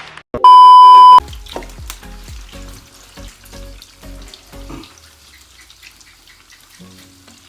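A loud, pure beep tone lasting under a second near the start, followed by a few seconds of music with a regular bass beat, then the faint crackle of street food frying in hot oil.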